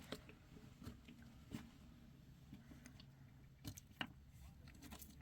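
Near silence with a faint low hum and a few scattered soft clicks and taps.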